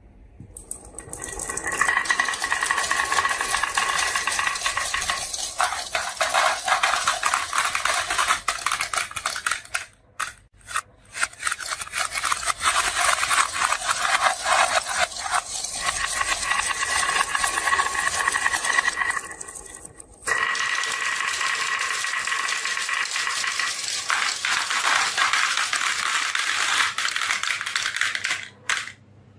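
Marbles rolling and clattering down a HABA slope marble run, a dense rattle with a steady ringing tone. It comes in three runs of about nine seconds each, with brief breaks between them.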